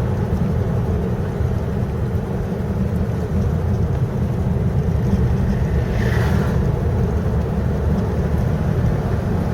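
In-cabin engine and road noise of a moving 1950 Rover P4 'Cyclops' saloon: a steady low drone, with a brief hiss about six seconds in.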